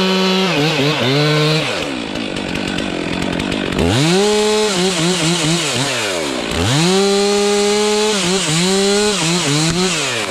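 Two-stroke chainsaw revved to full throttle three times and cutting into wood. Each time the engine note holds high, wavers and dips under load, then drops back to idle.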